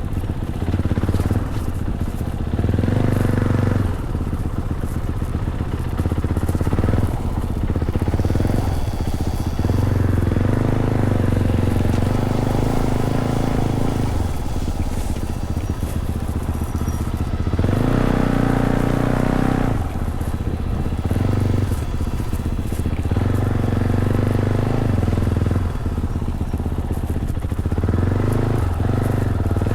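Fantic Caballero 500's single-cylinder engine through its stock Arrow exhaust while riding a trail, the pitch rising and falling several times as the throttle is opened and closed.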